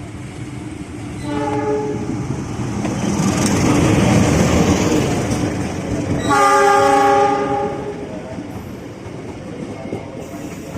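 Train horn sounding twice, a short blast and then a longer, louder one, over the rumble of a train running through the station.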